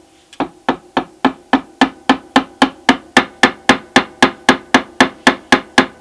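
Small hammer tapping on wood in a quick, even rhythm, about four light strikes a second, each with a brief ringing tail; the strikes grow louder over the first couple of seconds, then hold steady.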